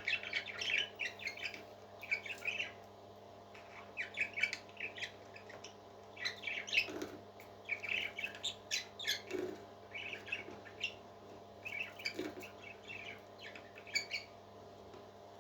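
Parrot chirping in clusters of short, high calls that stop shortly before the end, over a steady low hum.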